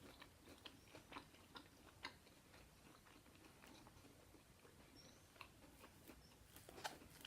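Faint chewing, with soft scattered mouth clicks as a person eats pancakes.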